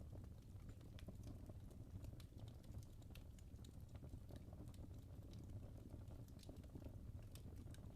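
Burning logs in a fireplace crackling faintly, with many small irregular pops over a low steady rumble of the fire.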